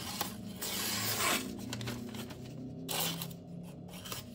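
Steel knife edge drawn across a sharpening surface in a few separate scraping strokes, about a second and a half apart, over a faint steady hum.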